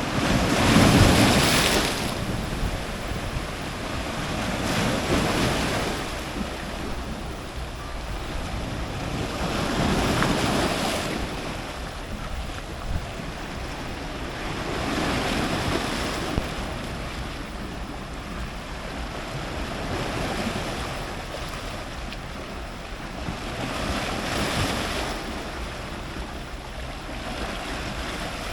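Ocean surf breaking on a rocky tropical shore, close to the waterline. The roar of the water swells and ebbs about every five seconds, and the biggest wave hits about a second in.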